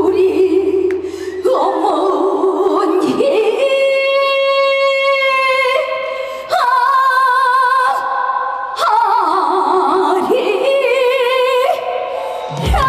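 A woman singing a Korean trot song live, holding long notes with a wide vibrato and sliding between pitches, over sparse musical accompaniment.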